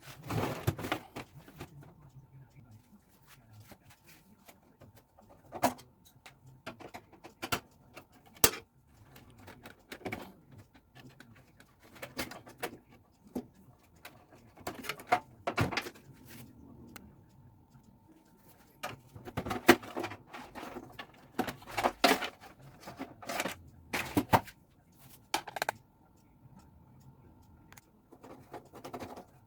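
Irregular clicks, knocks and clatters of small hard objects being handled, some in quick clusters, over a faint steady high whine.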